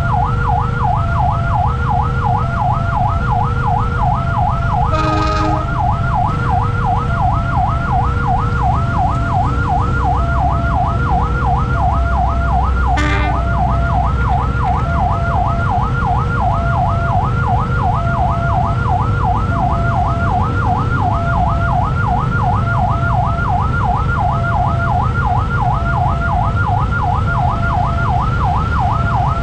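Railway level-crossing warning alarm sounding without pause: a loud electronic warble that repeats about two and a half times a second, over a steady low rumble of engines. Two short horn blasts cut in, about five seconds in and again near the thirteen-second mark.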